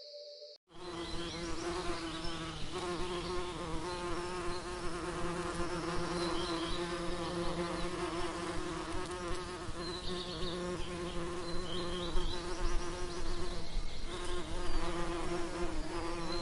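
Bees buzzing in a steady, continuous drone, starting suddenly less than a second in.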